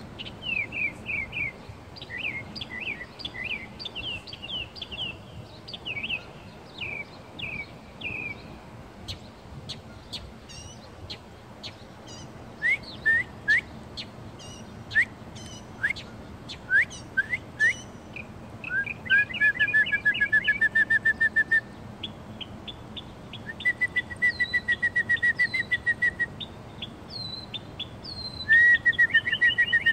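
A songbird singing a long, varied song: runs of repeated down-slurred whistled notes, then rapid even trills, with the phrase changing every few seconds.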